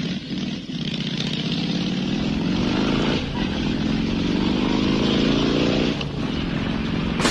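Motorcycle engine accelerating, rising in pitch through the gears. The pitch drops sharply at two upshifts, about three seconds and about six seconds in.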